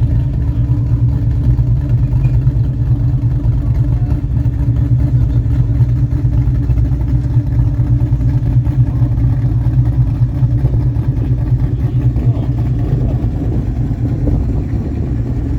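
Classic American car engine running steadily with a deep, even rumble.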